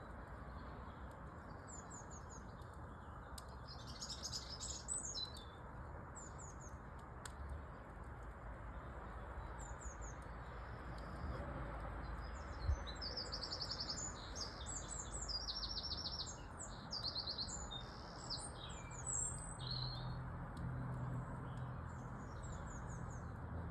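Small birds chirping and twittering, with quick repeated chirp notes and bursts of rapid trilling, busiest through the middle, over a steady low background hiss.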